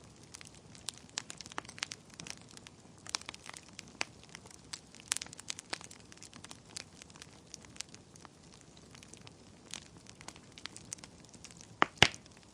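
Wood fire in a fireplace crackling, with irregular snaps and pops over a faint hiss and two louder pops near the end.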